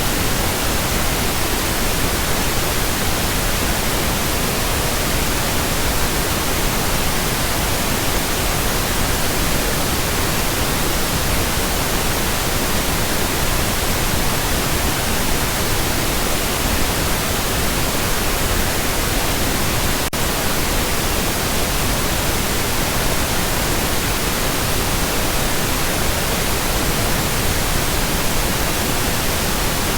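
Steady pink noise: an even, unbroken hiss across the whole range, with a momentary dropout about twenty seconds in.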